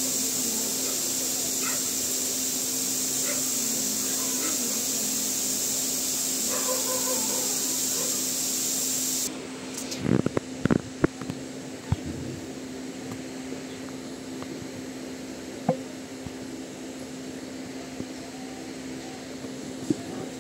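Passenger train heard from inside at a coach window, running slowly: a steady hiss over a constant low hum. The hiss cuts off abruptly about nine seconds in, followed by a few sharp knocks, then a quieter steady hum with the odd tick.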